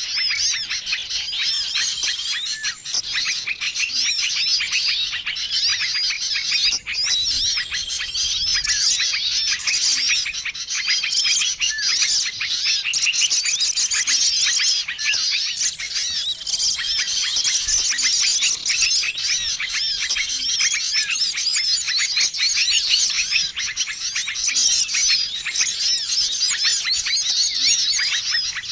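Bird-lure recording of many small songbirds chirping and calling over each other in a dense, unbroken chorus, with a short flat whistled note recurring every couple of seconds.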